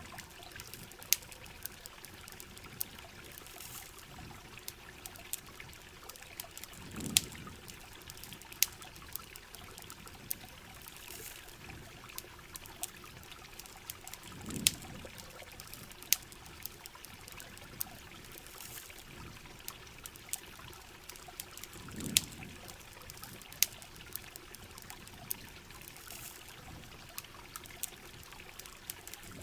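Heavy rain falling steadily, with sharp campfire crackles and pops scattered through it. A low swelling gush of water comes and goes about every seven seconds.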